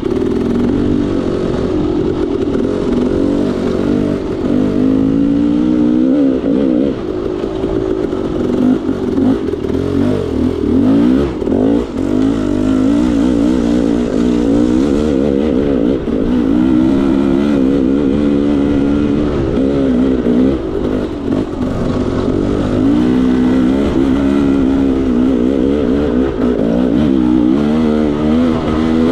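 KTM 300 XC-W two-stroke dirt bike engine being ridden, its revs rising and falling again and again as the throttle is worked on and off.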